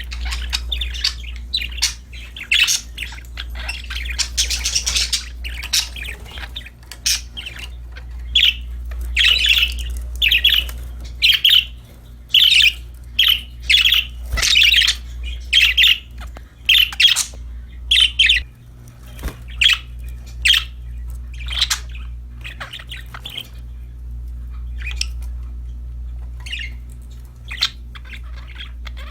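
Pet budgerigars chirping and squawking in a dense run of short, sharp calls, loudest and quickest in the middle stretch, over a steady low hum.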